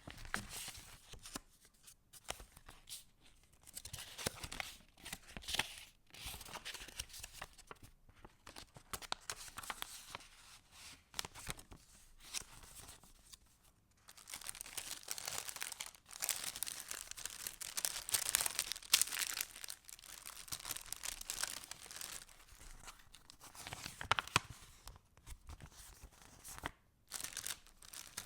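Paper pages and inserts of a handmade junk journal rustling and crinkling as they are turned and handled, in a run of separate bursts with short pauses between them.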